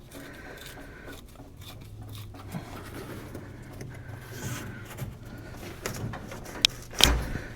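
Hand work on the truck: small clinks, scrapes and rustles of tools and parts, then a sharp click and, about seven seconds in, a single loud thump.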